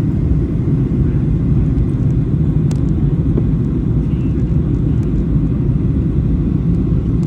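Steady low rumble of engine and airflow noise inside the cabin of a Boeing 737-800 airliner on its approach.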